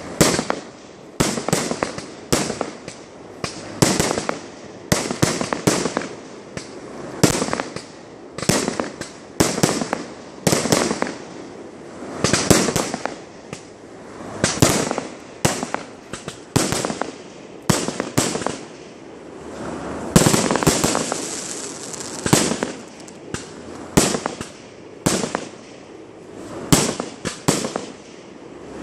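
Fireworks display: aerial shells bursting in a continuous series of sharp bangs, about one to two a second, with a denser run of bursts about twenty seconds in.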